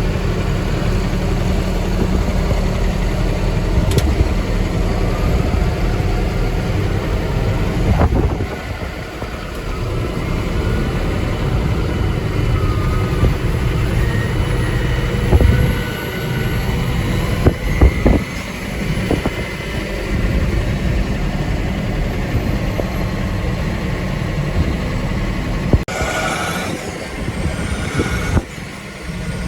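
Heavy farm loader's engine running steadily while clearing drifted snow, with several sharp knocks and clanks from the machine.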